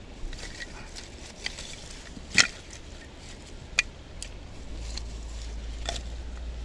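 A few sharp knocks of wood being struck or handled. The loudest comes about two and a half seconds in and another about a second later, with a few lighter ones around them. A low steady rumble comes in about two-thirds of the way through.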